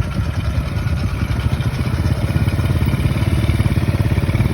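Small engine running steadily with a rapid, even low throb.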